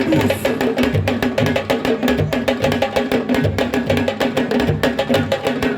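Percussion-led music: fast, dense drum strokes over a steady, repeating low beat.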